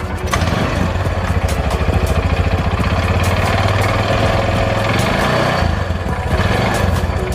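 Small petrol engine of a motorbike or three-wheeler type running at idle after its loose spark plug cap was tightened, showing the starting fault is cured. Its note dips briefly about two-thirds through, then runs on with a more pulsing beat.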